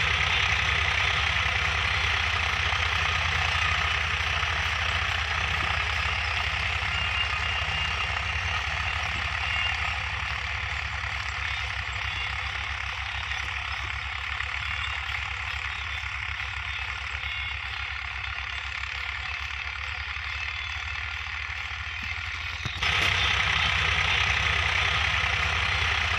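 Tractor's diesel engine running steadily with a rapid knocking beat. About 23 seconds in it suddenly gets louder.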